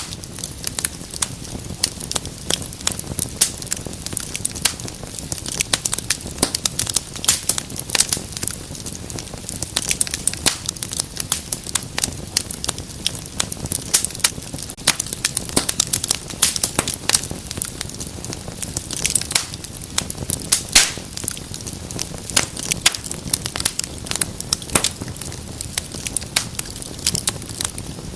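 Wood fire burning in a fireplace: constant irregular crackling and popping over a low steady rumble of the flames.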